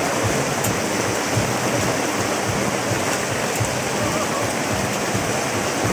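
Heavy rain mixed with hail pouring down onto a street, a steady dense hiss.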